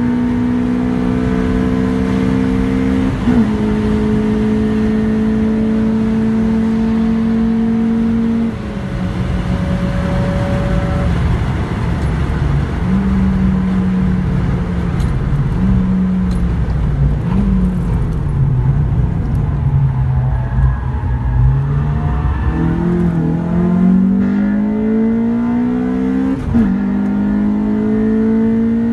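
Honda Civic Type R (EP3)'s 2.0-litre i-VTEC four-cylinder engine at high revs, heard from inside the cabin. It climbs under full throttle and dips sharply as it shifts up about three seconds in. It drops off after about eight seconds and runs lower with a few short rises and falls, then climbs hard again from about two-thirds of the way through, with another quick upshift near the end.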